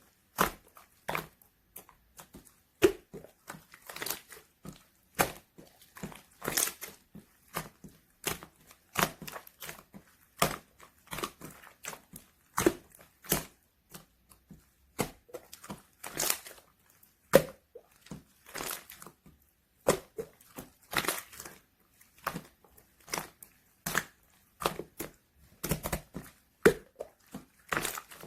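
Purple clear slime being squeezed and pressed by hand, giving irregular sharp pops and clicks as trapped air bursts, a few every second.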